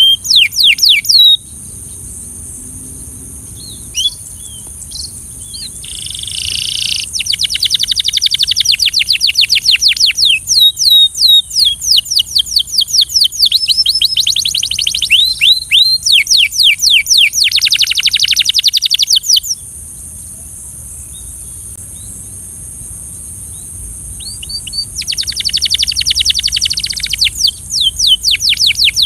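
Canary singing: long phrases of fast rolling trills, each made of rapidly repeated high notes, broken by a lull of a few seconds past the middle.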